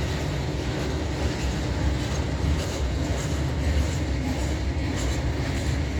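A train running past on the rails: a steady deep rumble of wheels and cars, with a few faint clicks from the rail joints.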